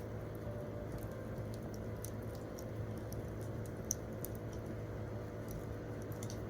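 Wood campfire crackling: irregular sharp pops and snaps, one louder snap about four seconds in, over a steady low rumble of the burning fire.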